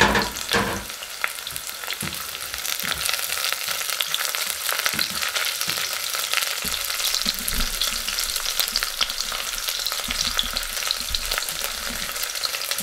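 Garlic cloves and ginger slices sizzling in hot oil in a nonstick pot, with a spatula stirring and scraping them around. Two louder knocks come right at the start, with small clicks and scrapes throughout.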